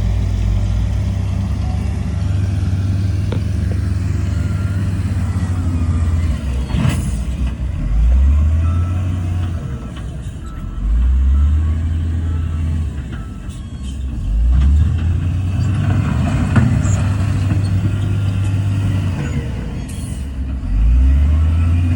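Heavy diesel engine of earthmoving equipment running under load and revving up several times, with a few short knocks in between.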